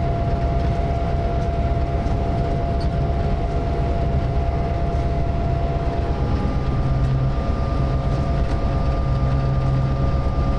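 Train locomotive running steadily: a low engine rumble with a steady whine that shifts to a higher pitch about six seconds in.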